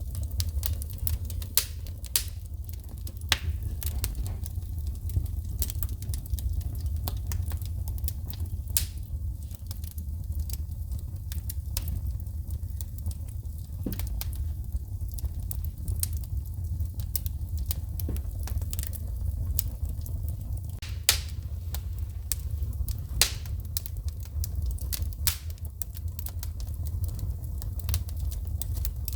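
Wood fire crackling and popping in a fireplace, with irregular sharp snaps from shooting sparks, a few much louder than the rest, over a steady low rumble of the flames.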